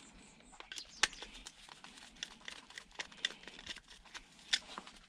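Scattered light clicks, taps and rustles of small plastic and metal e-waste parts being handled and moved on a workbench.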